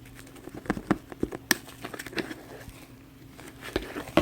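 Slime being squished and worked by hand, making irregular sticky clicks and pops, over a faint steady low hum.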